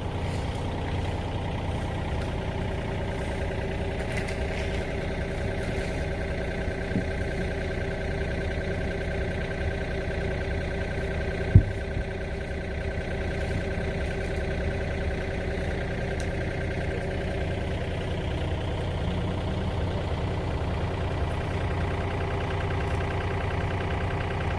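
Excavator's diesel engine running steadily at a constant pitch, with one sharp knock about halfway through.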